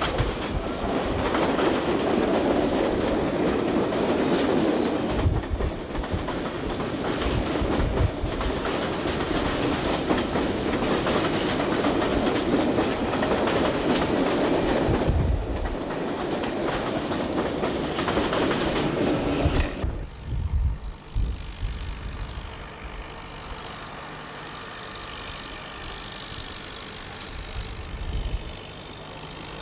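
Train running past on steel rails, its wheels clacking over the rail joints, loud for about twenty seconds before the sound drops off abruptly to a much quieter steady hum.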